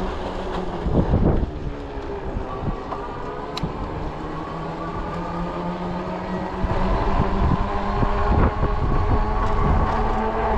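Ecotric 20-inch folding fat-tire e-bike riding on pavement: a steady whine from its motor and hum from the fat tyres, shifting slightly in pitch with speed. Wind buffets the microphone in gusts, louder in the second half.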